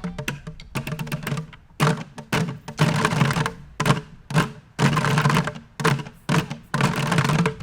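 Irregular bursts of tapping and thumping, about a dozen short clusters of clatter one after another.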